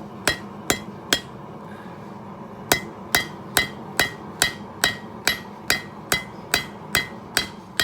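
Hand hammer striking hot steel on an anvil, a steady run of blows about two a second, each with a short metallic ring, forging out a knife blade. The blows stop for about a second and a half shortly after the start, then carry on.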